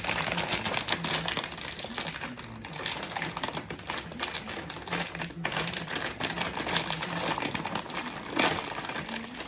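Plastic snack bag crinkling and crackling continuously as it is handled and pulled open.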